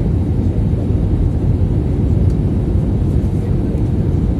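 Steady low noise of an Airbus A320's engines and airframe, heard from inside the passenger cabin during the landing.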